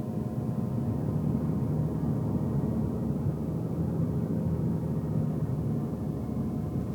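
Steady road and engine noise inside a moving car's cabin: a low rumble from the tyres and engine, with a faint steady engine hum.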